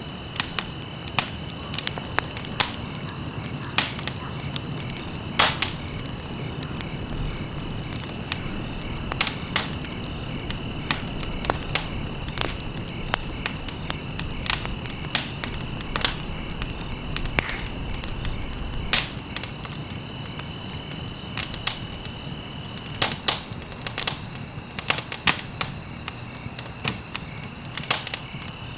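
Wood fire crackling: irregular sharp pops and snaps, some loud, over a steady low rush of burning logs, with a thin steady high whine underneath.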